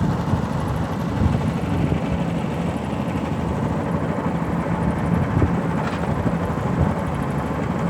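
Ferry's engine running steadily under way, a constant low drone.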